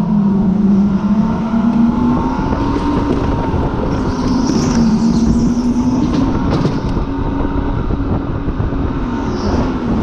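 Supercharged car's engine running at moderate, gently rising and falling revs, heard from inside the car over steady road and wind noise.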